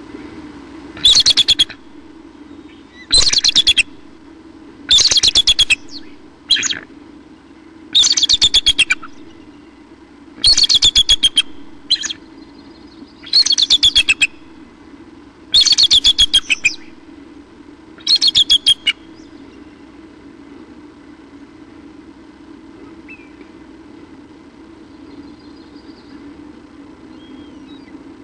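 A bird giving a loud, harsh rattling call about every two seconds: eight long calls and two short ones, stopping about 19 seconds in.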